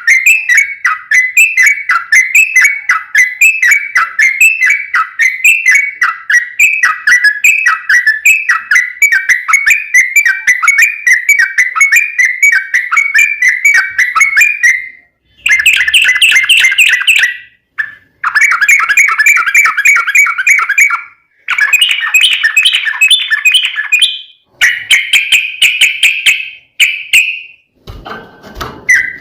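Yellow-vented bulbul (trucukan) song: a long, loud run of quickly repeated whistled notes. About halfway through it breaks into short bursts of faster chattering notes, each cut off abruptly with brief silences between.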